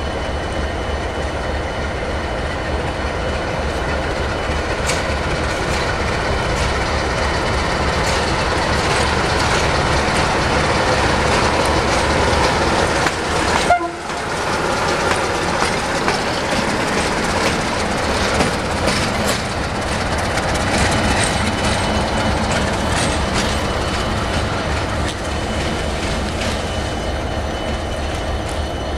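Diesel locomotive and train running through a railway station, a steady engine hum with wheels clicking over rail joints and points. The sound drops out briefly about halfway through.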